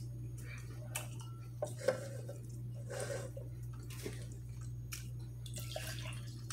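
Close-miked chewing with the mouth closed: scattered wet smacks and mouth clicks, a few louder ones about two seconds in, over a steady low hum.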